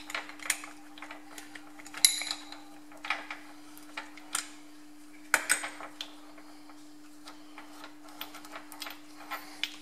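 Small machined steel parts being handled and set down on a bench: scattered light clicks and clinks, with sharper knocks about two seconds in and again past the halfway point, over a steady hum.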